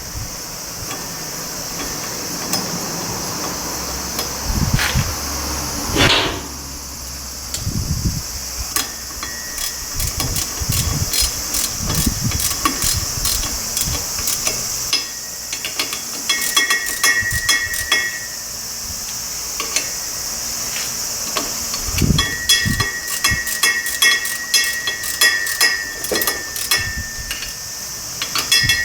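Metal tool work: spells of rapid metallic clicking with a ringing tone and scattered knocks, with a thud about six seconds in, over a steady high hiss.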